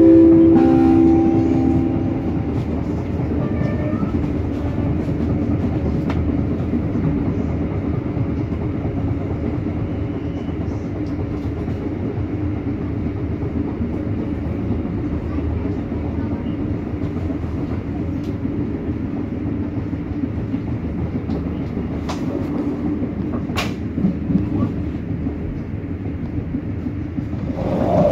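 Steady rumble of a moving passenger train heard from inside the carriage, wheels running on the rails with a few sharp clicks late on. At the very start the last notes of a falling on-board announcement chime fade out.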